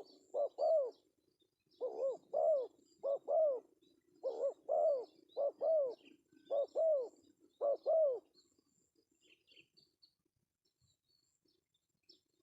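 Male spotted dove (tekukur) calling: a run of paired coos, each note rising and falling, about one pair a second, stopping about eight seconds in.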